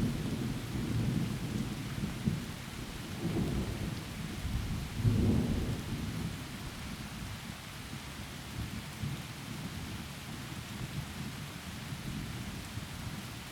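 Heavy rain falling steadily, with low rolling thunder that swells about three seconds in and again, loudest, about five seconds in, then dies away, leaving only the hiss of the rain.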